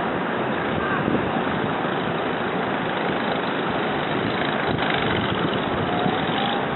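Steady rushing noise of blizzard wind on the microphone.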